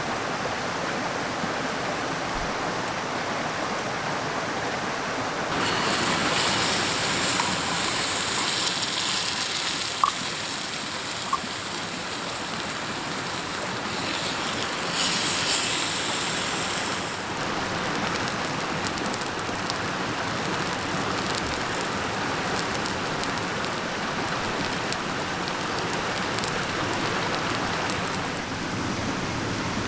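Mountain stream water rushing steadily, with a stretch of brighter, louder hiss from about six seconds in to about seventeen, and two small clicks around the middle.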